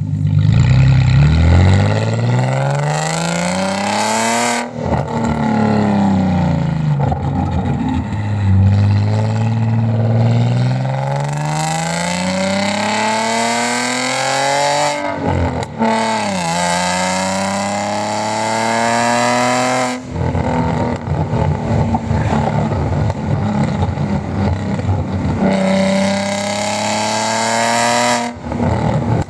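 Audi A4 B6's 3.0-litre V6 through a straight-piped exhaust, heard close at the tailpipe under way: the engine note climbs steadily in pitch through several pulls, with four sudden drops where gears change or the throttle lifts.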